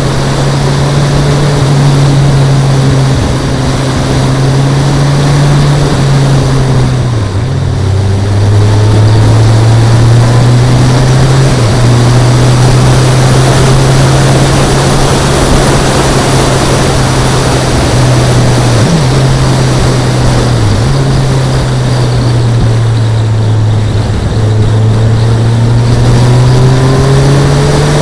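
Kawasaki ZZR 1400's inline-four engine running at a steady cruising pace, heard from a bike-mounted camera with heavy wind rush over the microphone. The engine note dips briefly several times, drops lower about seven seconds in, and climbs again near the end.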